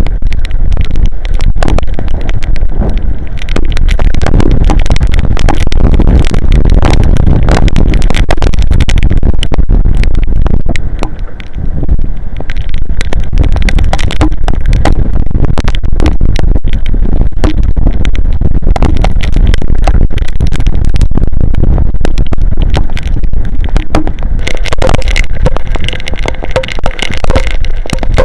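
Heavy rainstorm: strong wind buffeting the outdoor camera's microphone in a loud, steady rumble, with rain crackling on it throughout.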